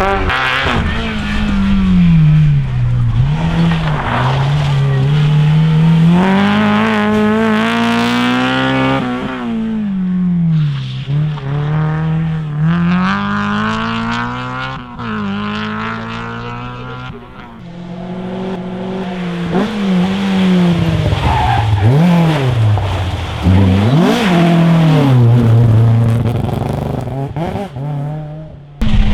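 Rally cars driven hard on a stage, the engines revving up and dropping back repeatedly through gear changes and lifts, with tyres squealing and skidding.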